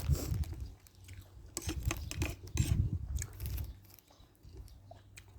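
Close-up eating and food-handling noises: scattered small clicks and crackles, with a few soft chewing sounds.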